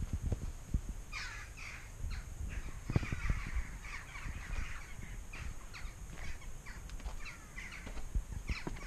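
Many birds calling, with short falling calls overlapping, busiest about three seconds in, along with low thumps of footsteps.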